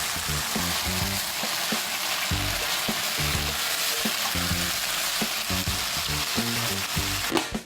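Pork sizzling and being stir-fried in a hot pan, a steady dense crackling hiss that cuts off near the end. Background music with a regular low beat plays underneath.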